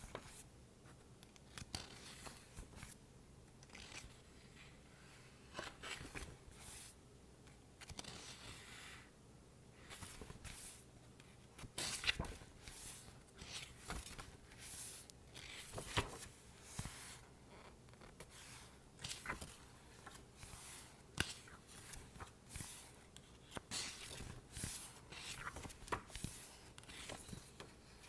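Fingers working a book up close: a run of papery swishes and scratches on the pages and cover, with a few sharp taps.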